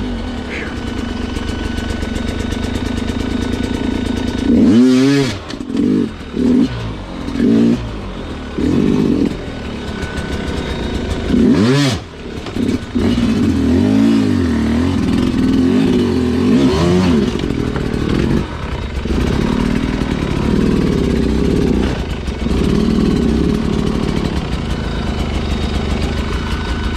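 Sherco two-stroke dirt bike engine blipped in short, choppy throttle bursts, easing off between them, with two sharp revs about five and twelve seconds in.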